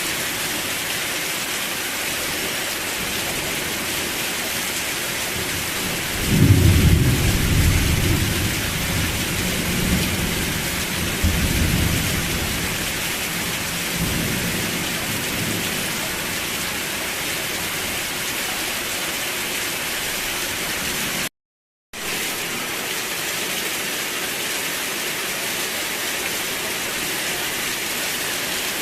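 Steady rain with a rumble of thunder that breaks suddenly about six seconds in and rolls on in waves for around ten seconds before fading. The sound cuts out completely for a moment about two-thirds of the way through.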